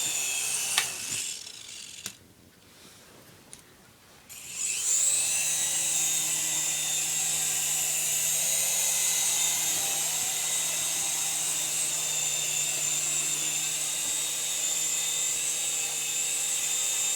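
Small electric remote-control helicopter's motor and rotors whining at a high pitch, dying away about two seconds in, then spinning back up a little after four seconds and holding a steady whine.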